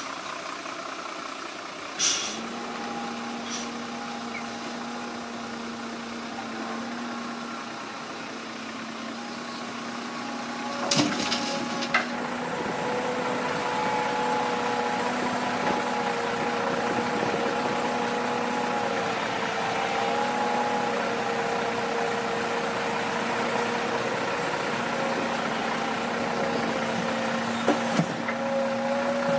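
Diesel engine of heavy earthmoving machinery running steadily with a few small pitch shifts. There are a few sharp knocks, the loudest about eleven and twelve seconds in.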